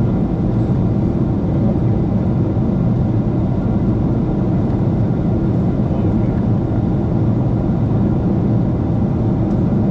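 Steady low rumble of jet cabin noise inside a Boeing 747-8 airliner, even and unbroken.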